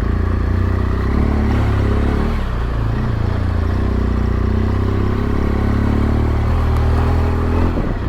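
Yamaha Ténéré 700's parallel-twin engine running at low speed, its pitch sagging and picking up a little as the throttle is worked, with a short dip near the end.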